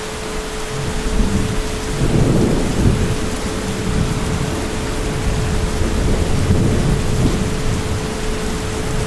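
Heavy rain falling steadily, with a long low rumble of thunder that swells about two seconds in and rolls on, fading near the end.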